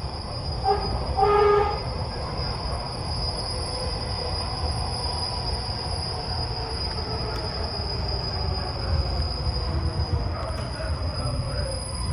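MARTA rapid-transit rail car heard from inside, running between stations: a steady low rumble of wheels on track with a constant high whine. A short pitched tone sounds about a second in.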